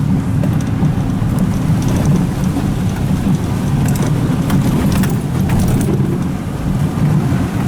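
Vehicle driving fast through floodwater, heard from inside the cabin: the engine runs under a steady rush of water spraying and drumming against the body, with a few sharp knocks.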